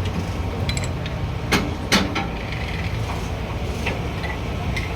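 Two sharp knocks about a third of a second apart, a second and a half in, over a steady low hum.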